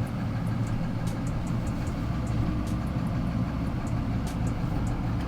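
UD tow truck's diesel engine idling steadily, a low even running note with faint light clicks over it.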